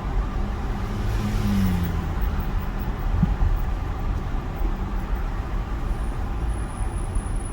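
Steady car road and engine noise heard from inside a moving car's cabin, a low rumble with a faint hum.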